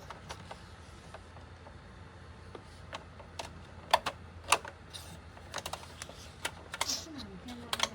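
A string of irregular sharp clicks and taps over a steady low hum, the clicks coming thicker in the second half.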